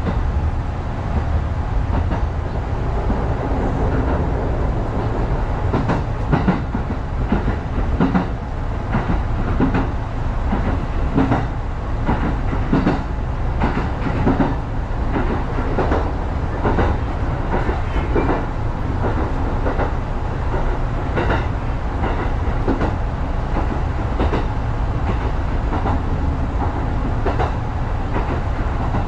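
Kintetsu electric train running along the track, heard from inside the front car: a steady low rumble with the wheels clicking over rail joints, the clicks coming thickest in the middle stretch.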